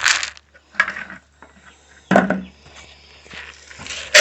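Sharp knocks and clatters, one after another a second or two apart, as an animal trap is handled and set.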